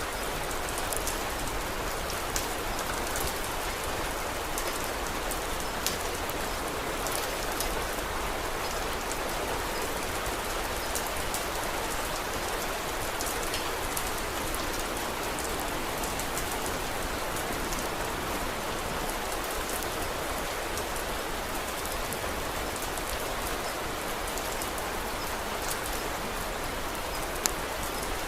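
Steady rain with scattered sharp ticks, and a few louder single clicks, one near the start and one near the end.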